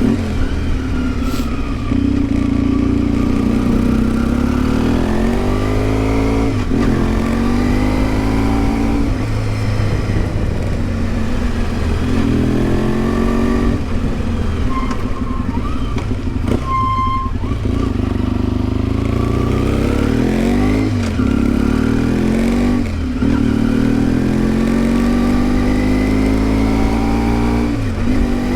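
1992 Yamaha XTZ 750 Super Ténéré's parallel-twin engine under way, rising in pitch as it accelerates and dropping back at each gear change, several times over. The rider finds the engine very sensitive to the altitude here.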